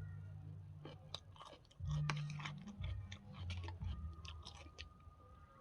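A person chewing food close to the microphone, with many small sharp mouth clicks. Under it runs a low hum that starts and stops several times.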